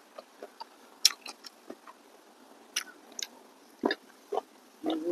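Close-up eating sounds of a person chewing and biting a mouthful of rice and side dishes: an irregular string of sharp clicks, smacks and crunches. Right at the end comes a short low pitched sound.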